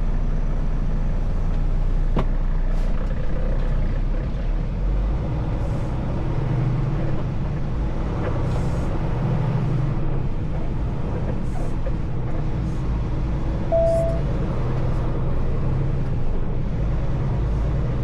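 Semi truck's diesel engine running steadily at low speed, heard as a constant low drone. There is a sharp click about two seconds in and a brief single beep near the end.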